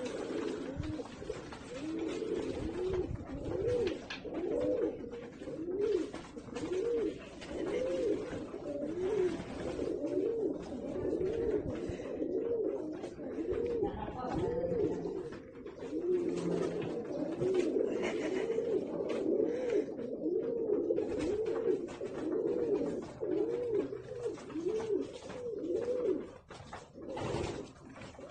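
A bird cooing over and over, short rising-and-falling coos about two a second, with a brief break about two thirds of the way through and stopping shortly before the end.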